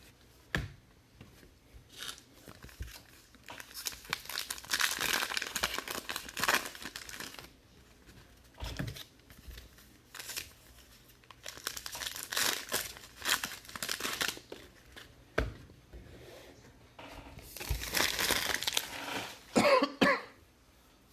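Foil trading-card pack wrappers being crinkled and torn open in several bursts of crackling, with scattered clicks of card handling. A cough near the end.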